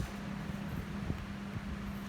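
A steady low machine hum, with a few faint soft ticks over it.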